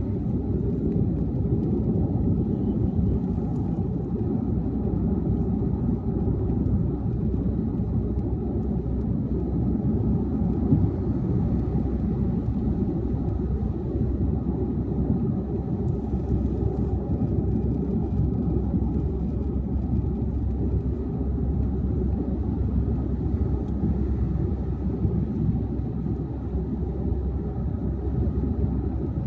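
Car driving at highway speed: a steady low rumble of tyre and road noise with engine hum, unbroken throughout.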